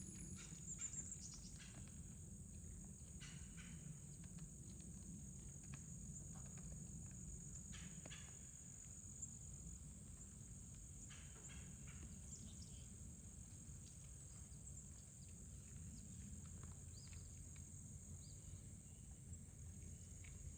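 Faint outdoor ambience: a steady high-pitched drone over a low rumble, with scattered soft clicks and rustles.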